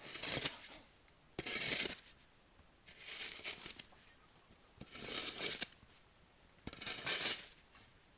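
Five evenly spaced rustling, scraping strokes, about one every two seconds.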